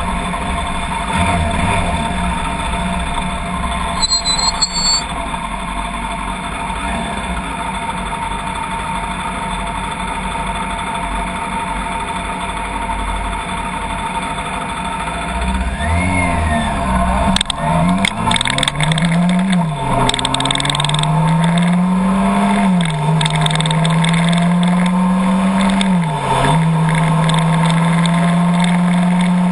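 Motor vehicle engine pulling away and accelerating: its pitch climbs and drops sharply at each of three gear changes, then holds steady at cruising speed. A low rumble underlies it.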